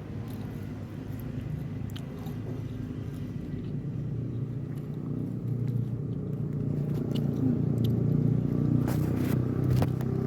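A motor engine's low rumble, growing steadily louder as if approaching, with a few sharp clicks near the end.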